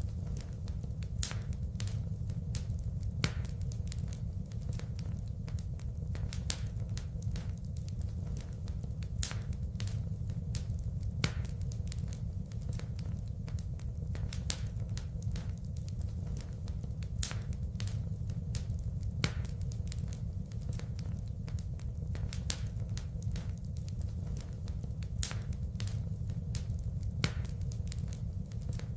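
Wood fire burning in a fireplace: a steady low rumble of flames under frequent sharp crackles and pops. The same louder pops come back about every eight seconds.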